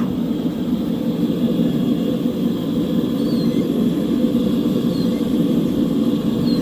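Car engine running at a steady idle, a continuous low rumble. A faint short high chirp repeats about every second and a half over it.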